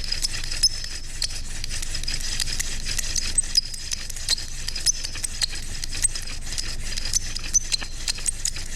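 Yucca spindle spun back and forth between the palms in a yucca fireboard: a dry friction rubbing with frequent small clicks and short high squeaks, as the drill heats the board toward smoke.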